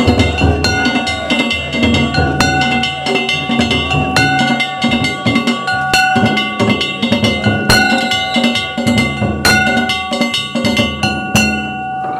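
Danjiri festival float music: a taiko drum beaten in a steady rhythm, with struck metal gongs ringing over it and a sharp accent strike every couple of seconds.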